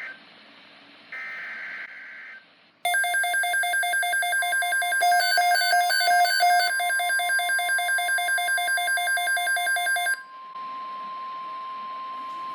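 NOAA Weather Radio alert sequence. Two short bursts of warbling SAME digital header data come first, then a loud, rapidly pulsing electronic alarm about 3 seconds in that lasts about seven seconds. A steady single-pitch warning tone starts under the alarm and keeps sounding on its own after the alarm stops; this announces the next alert, a severe thunderstorm watch.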